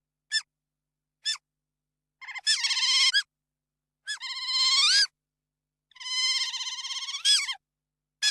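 Otter calls: three short high chirps in the first second and a half, then three longer high-pitched calls, each bending upward in pitch at its end.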